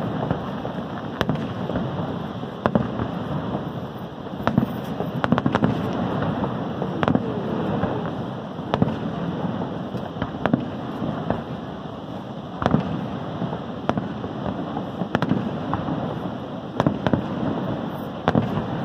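Aerial fireworks bursting: sharp bangs at irregular intervals, about one a second, with the loudest about two-thirds of the way through. A steady rushing background noise runs underneath.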